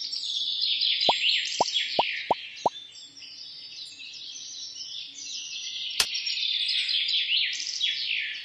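Birds chirping continuously, with many quick downward-sweeping calls overlapping. Five quick water-drop plops come about a second in, and there is a single sharp click at about six seconds.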